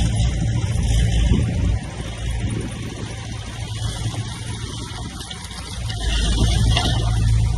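Heavy earthmoving machine's diesel engine running. It eases off about two seconds in and builds again near the end.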